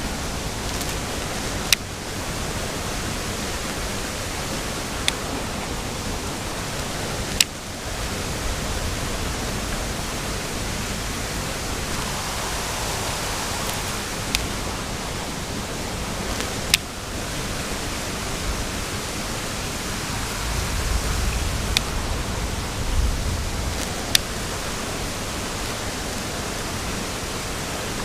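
Steady rushing of a small creek waterfall, with a handful of brief sharp clicks scattered through it.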